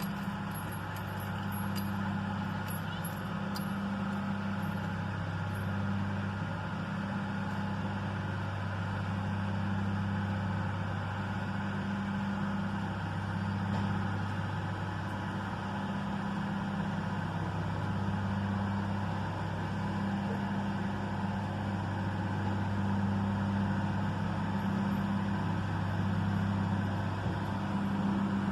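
Diesel engine of the Loram shoulder ballast cleaner train running steadily as the train backs slowly out of a siding, a low hum that throbs about once a second.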